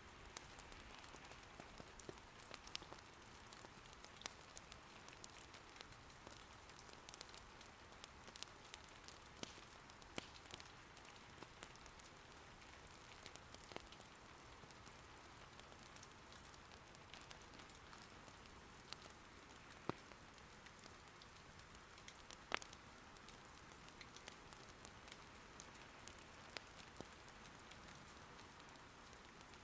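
Soft, steady rain patter with scattered sharp pops and crackles from firewood burning in an irori hearth, two of them louder, about twenty and twenty-two seconds in.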